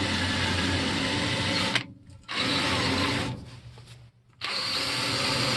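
A power tool spinning a wire wheel against a steel gas pipe, brushing it clean. It runs in three bursts, with short breaks about two and four seconds in.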